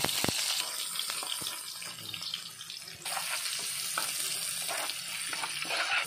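Minced garlic and sliced red onion sizzling in hot oil in a wok, the onion just added, with a metal spatula scraping and now and then clinking against the pan as it is stirred.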